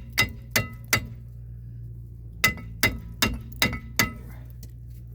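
Ringing metal-on-metal hammer blows, working at a seized, rusted top bolt on a Subaru Impreza's rear brake caliper bracket. Three quick strikes, a pause, then five more about two and a half a second.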